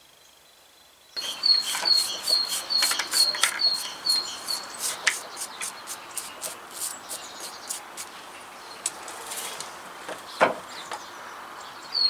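Near quiet for about the first second. Then a small bird chirps a run of short, evenly spaced high notes, about three a second, which fade out after a few seconds. Scattered clicks and rustles come from hands handling a dug-up birch in a plastic pot, with one sharper knock near the end.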